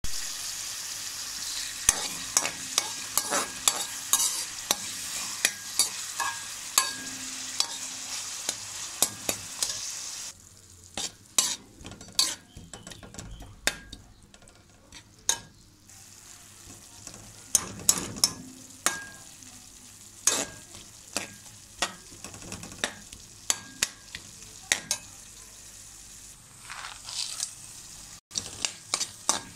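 Chicken and vegetables stir-frying in hot oil in a metal pan: a steady sizzle, with a slotted metal spatula clicking and scraping against the pan bottom many times. The sizzle drops noticeably after about ten seconds and rises again near the end.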